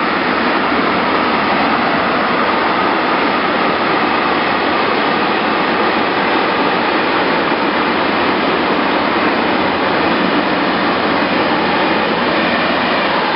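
Train running on rails: a steady, loud rush of wheel and track noise with a faint whine above it.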